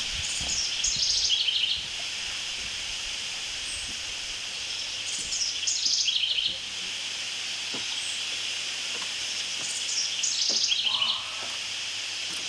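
A small songbird singing the same short phrase three times, each about a second and a half long and stepping down in pitch, over a steady high hiss.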